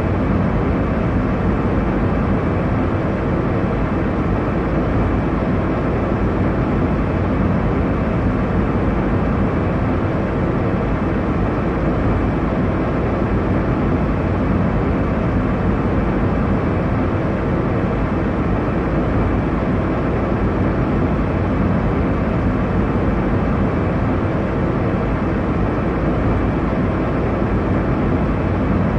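Steady airliner cabin noise in cruise: an even, unbroken rush of engine and airflow noise, heaviest in the low and middle range.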